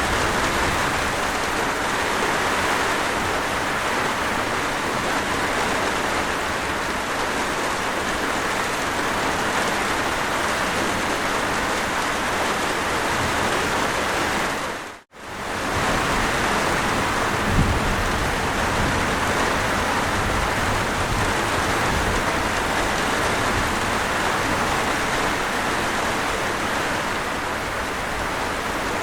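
Steady rain falling, a hiss of many drops strongest in the middle and upper range. About halfway through it fades briefly to silence and comes back, and a couple of seconds later there is a short low thump.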